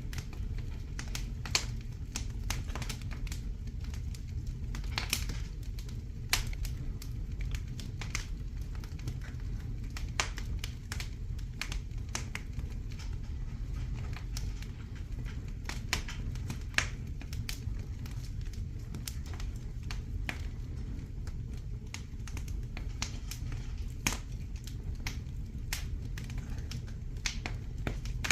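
Fire burning in a fireplace, crackling steadily over a low rumble, with irregular sharp pops, a few of them louder than the rest.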